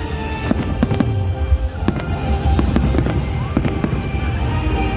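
Aerial fireworks going off in a rapid, irregular string of bangs over a low rumble, with music playing alongside.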